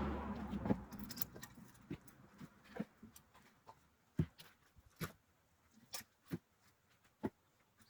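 Split firewood being handled and stacked: scattered short wooden knocks and clicks, spaced irregularly about a second apart. A steady engine-like rumble fades away in the first second.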